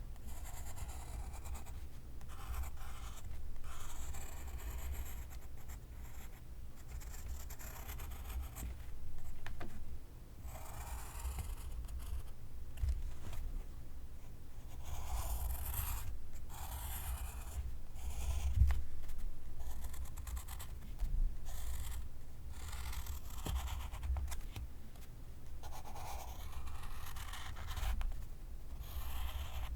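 Pencil writing on paper: a run of scratchy strokes with short pauses between them.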